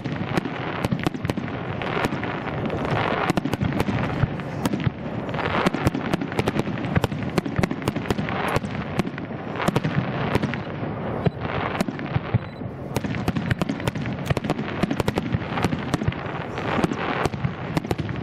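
Aerial firework shells bursting in rapid succession: a dense string of sharp bangs, several a second, over a continuous din of booming and crackle.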